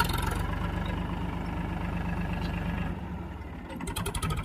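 Powertrac Euro 50 tractor's diesel engine running steadily with an even low pulse; about three seconds in it drops a little, then clatters more unevenly near the end.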